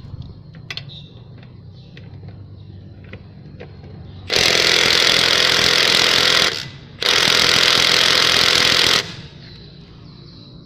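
Milwaukee M12 Stubby cordless impact driver hammering on a car wheel's lug nut in two bursts of about two seconds each, with a brief pause between: it is set to mode 2 and is trying to break the tight nut loose.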